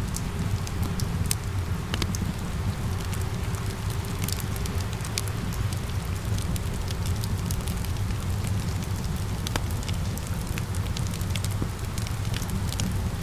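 Wood fire crackling with many small, irregular pops over a steady low rumble, mixed with a steady patter of rain.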